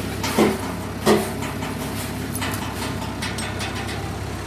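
Steady low machine hum with two loud knocks, each ringing briefly, about half a second and a second in, then a few fainter clicks.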